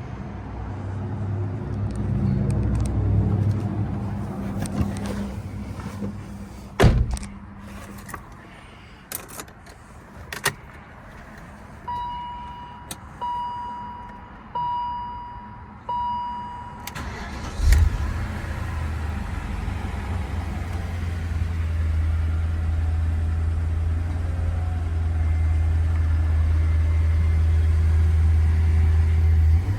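Clicks and a heavy thump, then four short electronic warning chimes from the dashboard. About two-thirds of the way through, the 2002 BMW M5's 4.9-litre V8 cranks and catches on a cold start. It settles into a steady, deep idle.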